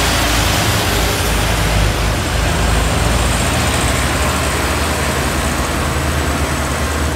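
Heavy truck's diesel engine labouring loudly uphill under a heavy load, a steady low rumble with road noise; the sound falls away just at the end.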